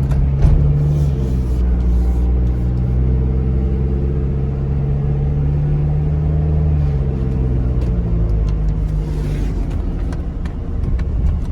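Mazda Bongo Friendee's 2.5-litre turbo diesel running steadily on the move, heard from inside the cab with road noise. The engine note drops slightly about seven seconds in.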